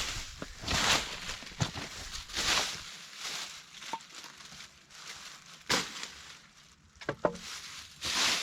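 Irregular swells of rustling and crunching, about one a second, with a quieter stretch in the middle and a few sharp snaps near the middle and about seven seconds in.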